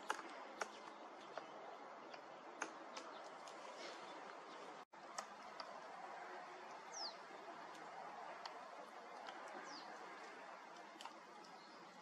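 Quiet forest ambience with a steady hiss and scattered sharp ticks. In the second half there are two short, high bird chirps, each sliding downward, a few seconds apart.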